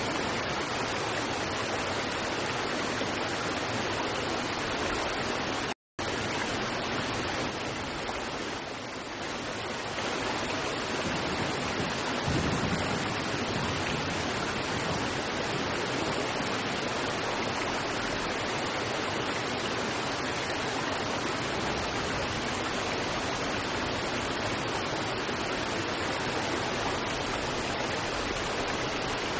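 River water rushing over rocks in a steady, even wash. It cuts out to silence for an instant about six seconds in.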